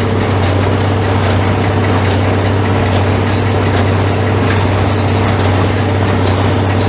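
Farmall 806 tractor engine running steadily.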